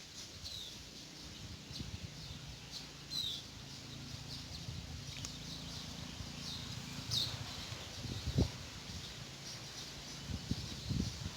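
White-eyes (burung pleci) calling in the wild: scattered short, high, thin chirps and a few quick downward-slurred notes, over a low steady hum.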